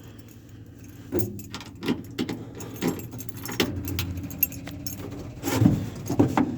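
A ring of keys jangling and clicking in repeated short bursts while the ignition key is sorted out and fitted, over a low steady hum.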